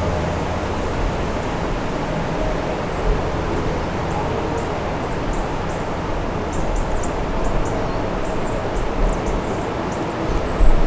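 High wind blowing through the woods and buffeting the microphone: a steady rushing hiss with low rumbling gusts, and faint high ticks in the second half.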